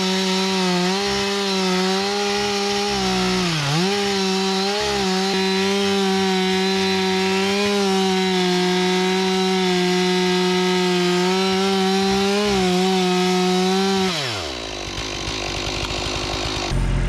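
Chainsaw running at high revs, cutting into a large Eastern White Pine stump. Its pitch dips briefly about four seconds in. Near the end the engine slows and drops in pitch.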